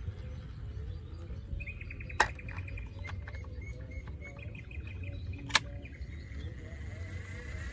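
Bird chirping in quick trills over a steady low rumble, with two sharp clicks about three seconds apart, the loudest sounds.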